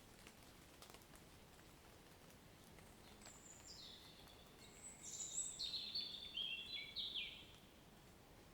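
A songbird sings one phrase of high, clear notes that step down in pitch, starting about three seconds in and lasting about four seconds. Faint, scattered water drips fall from wet foliage after rain.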